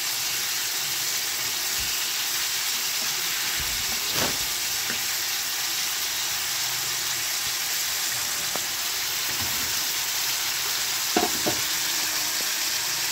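Potato wedges sizzling steadily in hot oil and spices in a kadai, with a few clinks of a metal spatula against the pan about four, eight and eleven seconds in.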